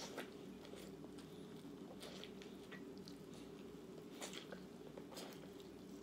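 Faint close-up chewing of food, with a handful of short mouth clicks and smacks spread through, over a steady low hum.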